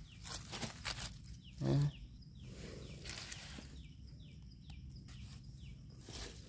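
Birds giving many short, falling chirps, with one short low call about 1.7 s in and faint rustling clicks.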